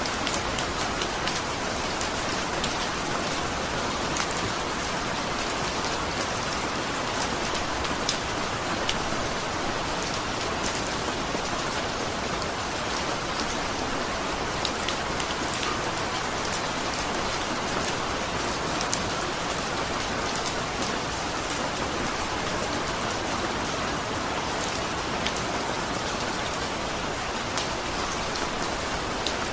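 Steady rain falling, with many distinct raindrop ticks striking a surface over the continuous hiss.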